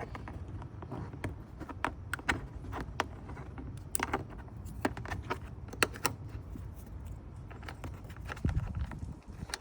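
Irregular sharp clicks and light knocks of a plastic engine-bay cover and its push-in fasteners being handled and snapped into place, over a steady low rumble.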